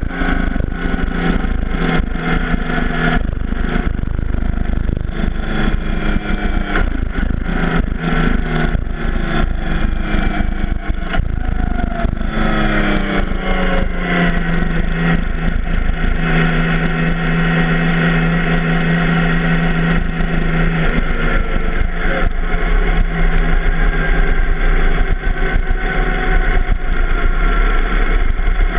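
Yamaha FJ-09's 847 cc crossplane inline three-cylinder engine running, with wind buffeting the microphone at first. Around twelve seconds in the engine pitch falls as the bike slows. It then runs low and steady at a slow roll, and the wind noise dies away.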